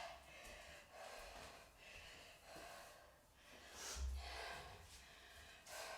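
A woman breathing hard in quick gasps, out of breath from exercise, with a dull thud about four seconds in.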